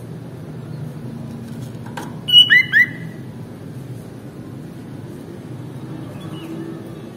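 Sooty-headed bulbul (kutilang) giving three quick, loud whistled notes that bend sharply in pitch, about two and a half seconds in, over a steady low background hum.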